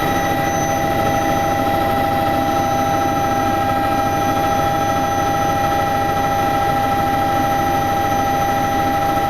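Helicopter turbine engine and rotor running steadily: a constant loud rush with a steady whine of several pitches on top.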